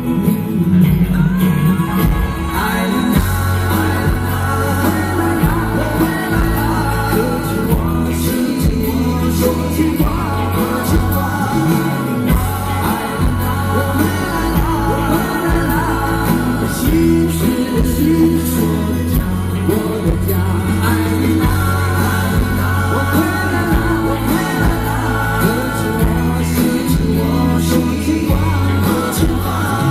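Live pop-rock band performance: male lead vocals singing a ballad over electric band backing with steady bass and drums, heard as an audience recording.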